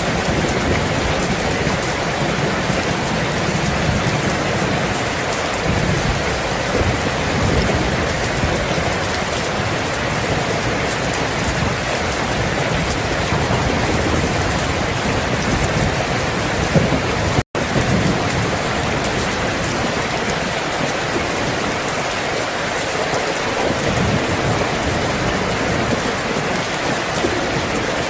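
Steady heavy rain with low rolls of thunder rumbling beneath it, the thunder easing off over the last third. The sound cuts out completely for an instant about two-thirds of the way through.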